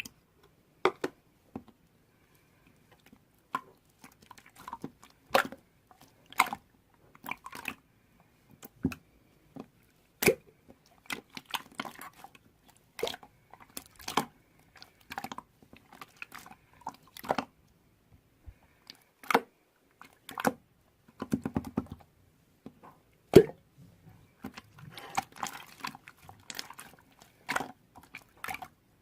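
Red golden slime being squeezed and pressed by hand, giving irregular sharp clicks and pops, with a denser crackling run near the end.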